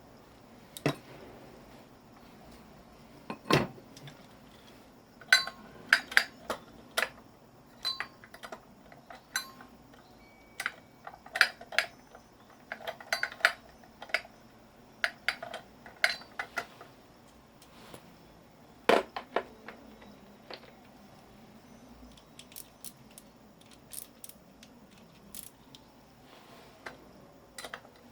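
Scrap metal parts of a dismantled electric motor clinking and knocking as they are handled by hand, in irregular clusters of sharp clicks, with two heavier knocks.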